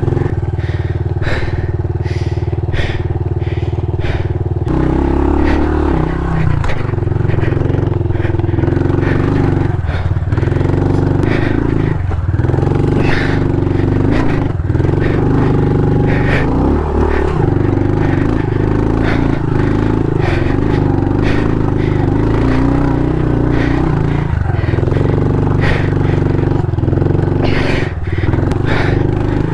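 Honda CRF110 pit bike's small single-cylinder four-stroke engine running under load as it climbs, its note shifting about five seconds in. Frequent sharp knocks and scrapes come from the bike going over rocky ground.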